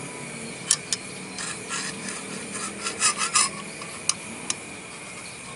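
Parts of a knife-sharpening jig and its whetstone being handled and fitted: a few sharp clicks and a cluster of short scraping rubs in the middle.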